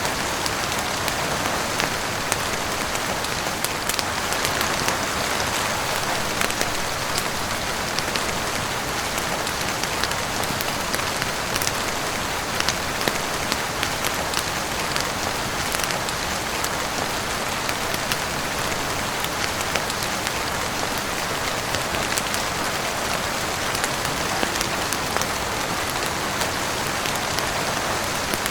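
Heavy rain falling steadily on a roof and windows, a dense even hiss with many small sharp drop ticks scattered through it.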